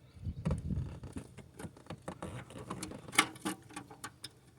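Irregular metallic clicks and taps of a small bolt and hand tools being worked against an engine's exhaust manifold while trying to start the bolt of a broken-exhaust-stud bypass kit, with one sharper click about three seconds in.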